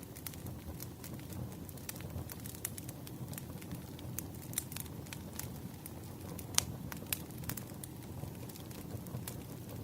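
Wood fire burning with a steady low rumble and frequent irregular crackles and pops, one sharper pop about two-thirds of the way through.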